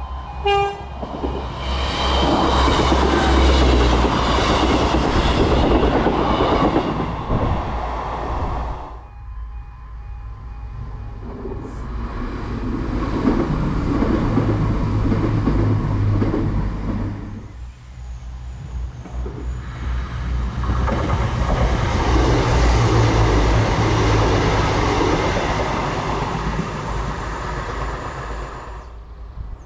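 Passenger trains passing at speed in three separate passes, each a long rumble with wheels clattering over the rail joints. A level-crossing warning alarm sounds at the very start.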